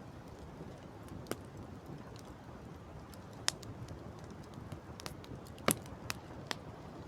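Campfire crackling, with scattered sharp pops of burning wood, the loudest about three-quarters of the way through, over a steady wash of wind and sea.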